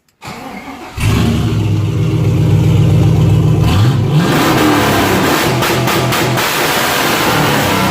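A 5.3-litre LS V8 truck engine with its exhaust removed, running open: it cranks briefly, catches about a second in and idles, then revs up from about four seconds in and is held high with quick cut-outs, bounced off the rev limiter.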